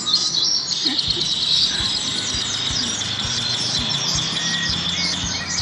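Songbirds chirping and singing in a dense, unbroken chorus of high, quick notes.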